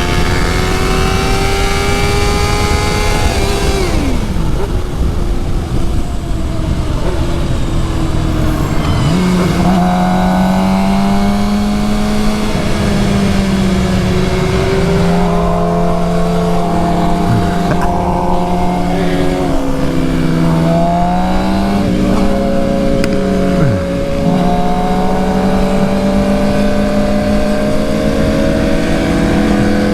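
Suzuki GSX-R750 inline-four engine under way, its pitch climbing and falling several times as it is worked through the gears, with strong wind rush.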